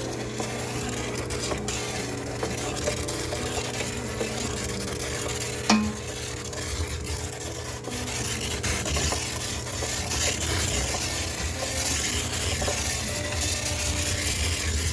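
High-pressure steam cleaner hissing steadily while it sterilises a sneaker washing machine, over a low steady machine hum, with one sharp click about six seconds in.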